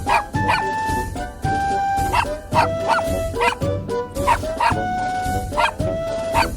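Background music with a stepping melody of held notes, over which a Papillon puppy barks and yips several times a second.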